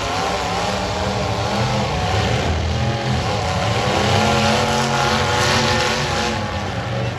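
Several demolition derby cars' engines running and revving together, their pitches wavering up and down over a dense rumble of noise.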